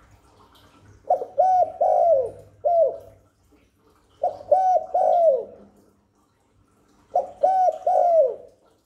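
Spotted dove cooing: three phrases of several short coo notes each, the last note of each phrase falling in pitch, with quiet pauses between them.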